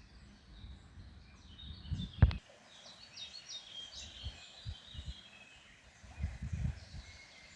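Small songbirds chirping outdoors, with irregular low rumbles and one sharp knock about two seconds in, the loudest sound.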